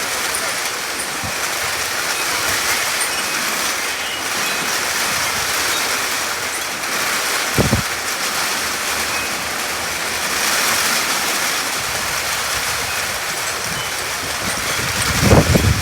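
Heavy rain pouring down, a steady loud hiss. About halfway through there is a brief low thump, and near the end come low rumbling buffets.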